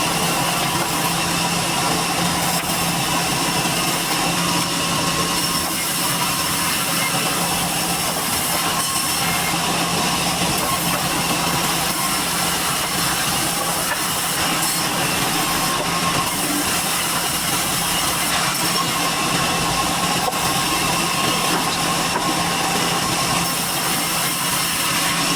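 Sawmill machinery running steadily as durian wood is processed: an unbroken, even noise with a constant hum, with no pauses or starts and stops.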